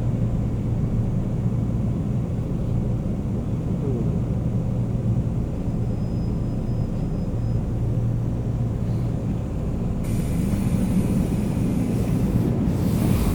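Inside a Seoul Metro Line 9 subway car at a station stop: a steady low rumble from the train. About ten seconds in the sound suddenly brightens with a rush of hiss as the doors open, and a few knocks follow near the end.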